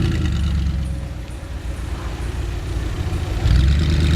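Audi R8's engine running at low revs. It dips quieter, then swells louder about three and a half seconds in.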